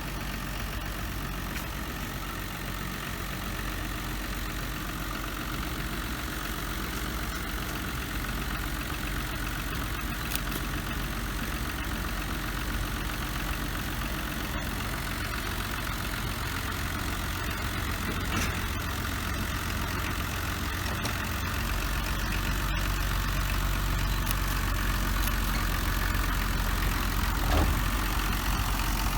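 Engine of a narrow-gauge sugar-railway train running steadily at idle with a low hum. It grows louder about three-quarters of the way through.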